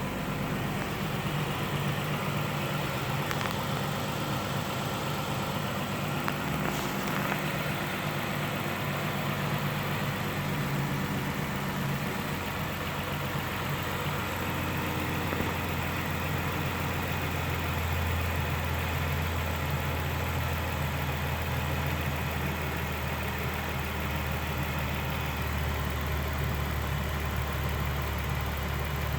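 2016 Ram 1500 pickup engine idling steadily; its low hum shifts in pitch about twelve seconds in.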